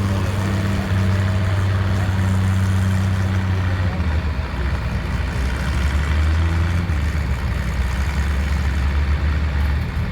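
Engine running steadily at low speed with a deep hum; about four seconds in, the hum drops to a lower pitch.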